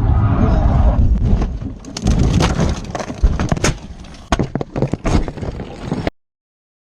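Car crash caught on a dashcam: road and engine rumble, then a rapid string of sharp bangs and crunches from the collision and debris. The sound cuts off abruptly near the end.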